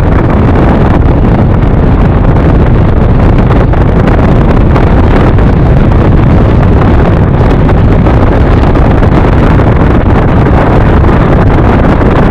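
Steady wind noise buffeting a helmet-mounted microphone while riding a motor scooter at speed, with the road and vehicle noise mixed in underneath.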